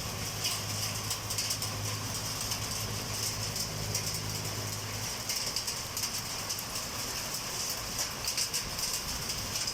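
Heavy rain pouring down, a dense steady hiss with fine crackle. A low steady hum runs under it and stops about halfway through.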